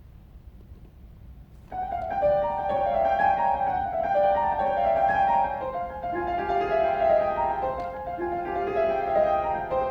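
Solo piano: after a pause of about a second and a half, quick, busy notes in the upper-middle register start up and run on, with a lower melodic line joining about six seconds in.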